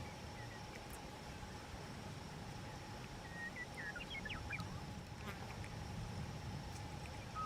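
Outdoor ambience: a faint steady insect drone, a few short bird chirps about three to five seconds in, and a low wind rumble.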